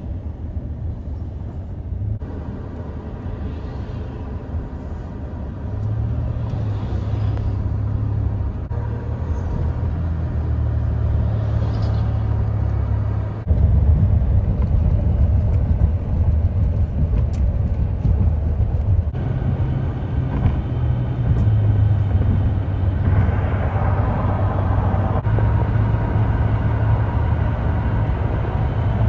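Highway traffic with heavy trucks, heard as a steady low rumble that shifts abruptly a couple of times and grows louder in the middle range near the end.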